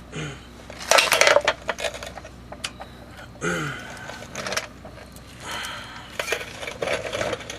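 Metal hand tools clinking and clattering against metal parts in a few short bursts: about a second in, around three and a half seconds, and again near the end.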